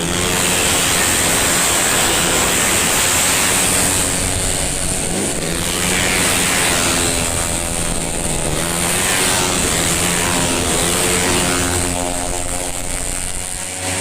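Tuned 130 cc automatic scooter engines racing past at high revs, several at once, their pitch rising and falling as they pass.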